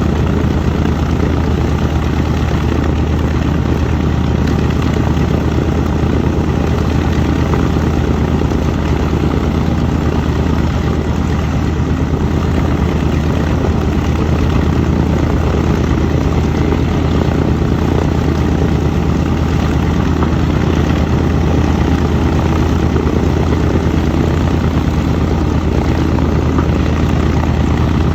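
North American B-25 Mitchell's Wright R-2600 radial engines running steadily, a loud, even propeller drone that holds its pitch with no revving.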